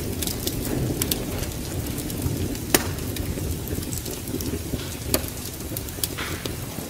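Wood fire crackling, with scattered sharp pops, the clearest a little under three seconds in and twice near the end, over a steady low rumble.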